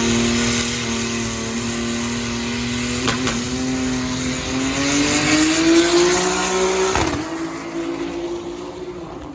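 Drag race car's engine running hard down the strip. The pitch holds steady, then climbs, breaks sharply about seven seconds in like a gear change, and fades as the car gets farther away.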